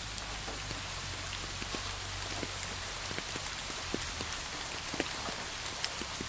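Steady rain: an even hiss with many separate drops ticking at irregular moments.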